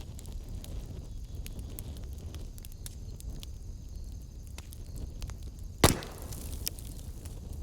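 Wood fire in a fireplace burning with a low steady rumble and scattered small crackles. One loud pop comes about six seconds in, followed by a brief hiss.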